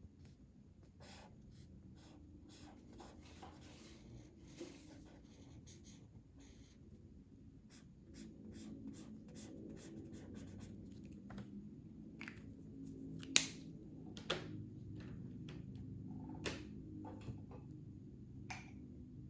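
Colouring on paper by hand: the soft scratch of strokes, with scattered light taps and clicks. The loudest is a sharp click a little past the middle.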